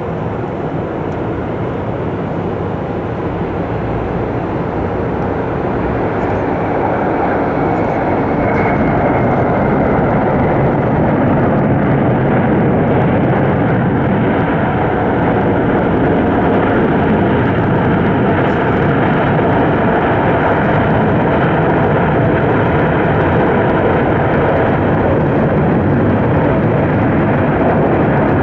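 Jet engines of a British Airways Airbus A350-1000 landing: a loud, even jet roar that builds over the first ten seconds or so, then holds steady.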